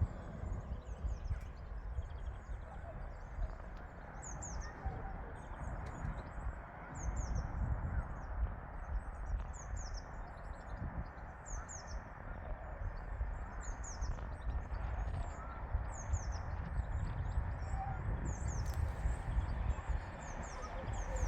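A small bird calling over and over, short high thin notes that fall in pitch, roughly once a second, over a steady low outdoor rumble.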